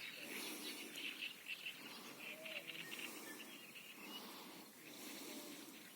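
Faint birdsong: rapid high chirping trills that die away about three seconds in, over a quiet rural background.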